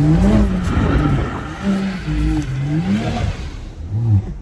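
BMW M340i's turbocharged 3.0-litre inline-six with a catless downpipe, revving up and falling back several times as the car is slid in circles on wet pavement, over a steady hiss of tyres and spray.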